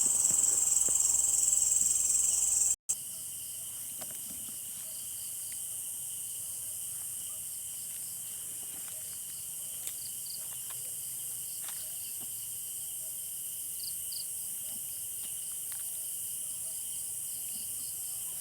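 Night insect chorus of crickets trilling steadily. A loud high trill fills the first few seconds. After a brief break, a quieter chorus carries on with faint pulsing calls.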